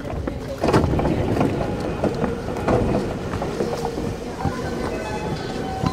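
Running noise of a JR East E233-6000 series electric commuter train, heard from inside the passenger car: a steady rumble of wheels on rails that grows louder about a second in. In the second half a few steady whining tones join it.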